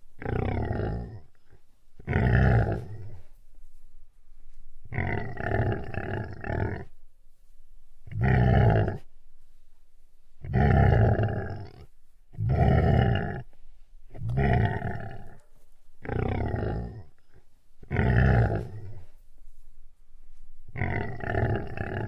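A large animal's deep calls, each about a second long, repeated every two seconds or so, some broken into two or three quick pulses.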